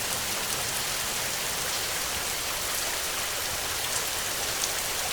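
Heavy rain falling steadily, a dense even hiss with scattered single drops ticking through it.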